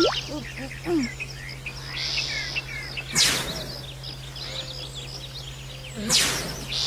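Cartoon soundtrack of birds chirping as background ambience, cut twice by a short swishing sound effect, about three seconds in and again near the end.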